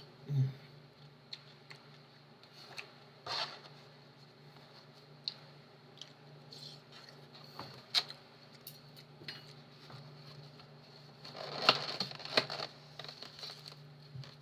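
Eating sounds: scattered small clicks, knocks and scrapes of utensils against a dish, busiest near the end, over a steady low hum.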